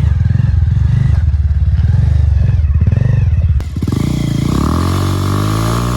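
Motorcycle engine running with a throbbing exhaust note. A bit past halfway there is a sharp click, and then a louder engine sound falls steadily in pitch, as when the revs wind down or a bike passes.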